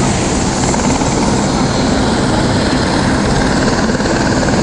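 Helicopter turbine and rotor running steadily with a constant, dense noise.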